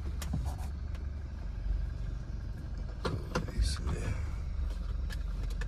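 Toyota car engine idling, a steady low rumble heard from inside the cabin, with a few short clicks and knocks of handling scattered through.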